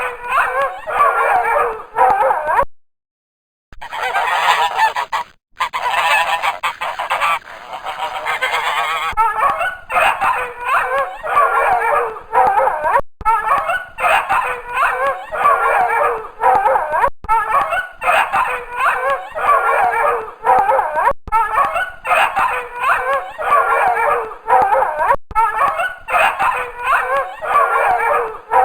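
Flock of geese honking, many overlapping calls in quick succession, in spliced clips with a short silent gap about three seconds in.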